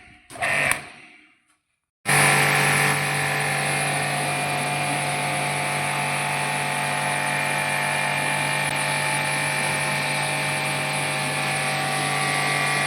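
A steady mechanical running noise with a low hum and hiss, starting after a short silence about two seconds in.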